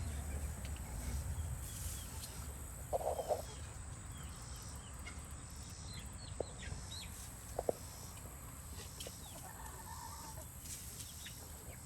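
Backyard flock of chickens clucking softly now and then, with a short call about three seconds in and a few brief peeps and chirps, over a steady low background hum.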